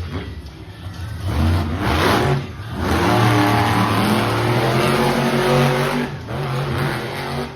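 Monster truck engine revving hard in repeated surges. The pitch climbs and falls away, dipping briefly about two and a half seconds in and again around six seconds in.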